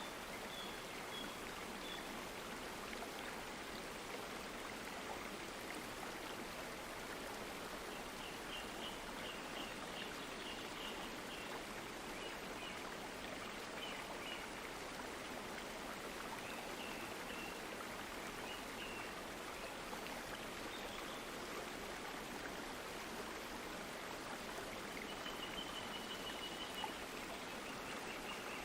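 Water running steadily in a stream, an even rushing with no breaks. Faint short high notes sound a few times over it.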